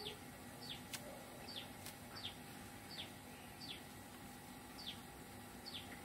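A bird gives a series of faint, short chirps, each sliding down in pitch and repeated a little less than once a second, with a couple of faint clicks about one and two seconds in.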